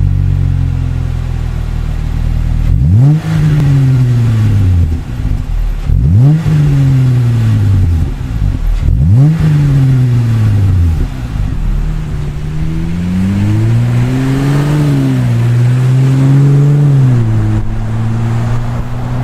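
Jeep Wrangler JL V6 running through a MagnaFlow Overland Series cat-back exhaust. It idles steadily, then gives three quick revs about three seconds apart, each falling back to idle. Longer, held revs follow in the last few seconds.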